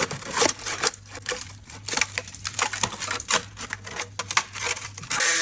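Irregular sharp taps and knocks, two or three a second, over a low steady hum. A power tool starts up with a steady whirr near the end.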